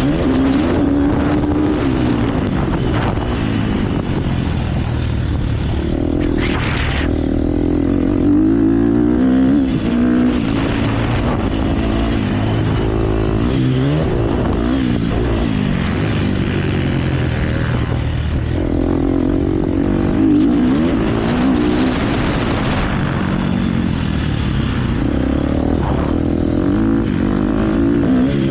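KTM motocross bike's engine ridden hard round a race track, revving up and backing off over and over, its pitch climbing and dropping with throttle and gear changes. Heard up close from a GoPro mounted on the bike or rider.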